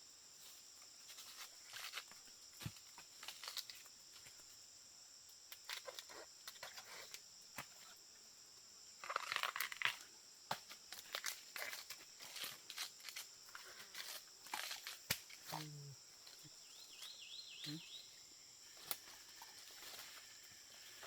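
Scattered light crackling, tapping and rustling of hands handling something, with a denser crackle about nine seconds in. Under it runs a faint steady high insect drone, and a few brief chirps come near the end.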